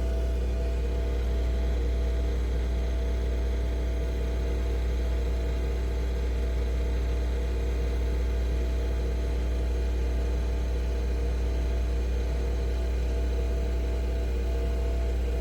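Nespresso Vertuo Pop+ coffee machine brewing: a steady motor hum with a strong low drone, as the capsule is spun during extraction.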